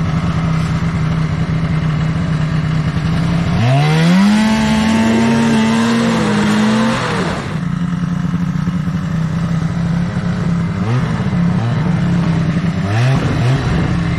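Snowmobile engine running at a steady speed. About four seconds in it revs up as the throttle opens, holds high for about three seconds, then drops back. Two shorter throttle blips come near the end.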